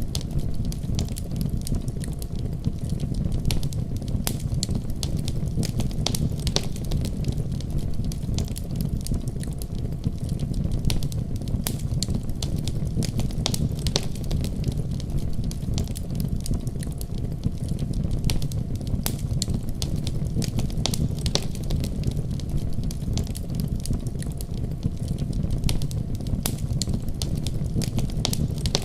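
Wood fire crackling, with frequent sharp irregular pops, over a steady deep rumble of a snowstorm's wind.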